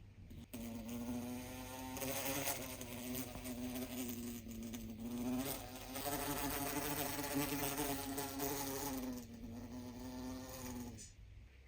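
A small electric motor buzzing steadily for about ten seconds. It starts with a click about half a second in and winds down near the end.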